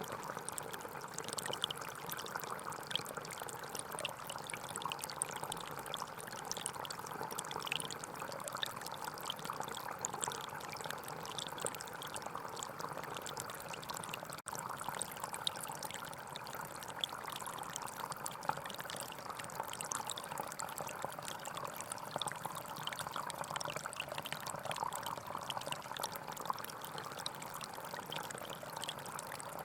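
Gentle forest stream flowing steadily, a continuous rush of water with small splashes, and a very brief dropout about halfway.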